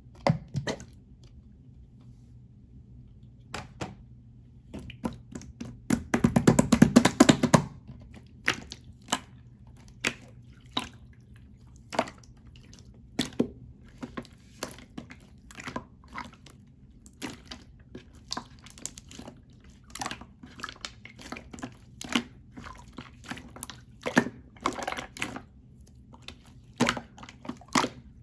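Clear slime being squeezed and pressed by hand, giving a string of sharp wet clicks and pops, with a dense stretch of crackling about six seconds in.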